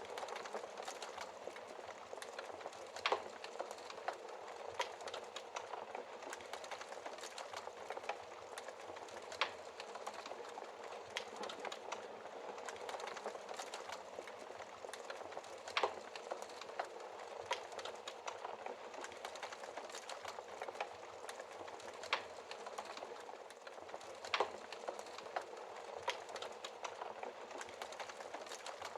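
Wood fire burning in a fireplace: a steady hiss with constant small crackles and a sharper pop every few seconds as the logs burn.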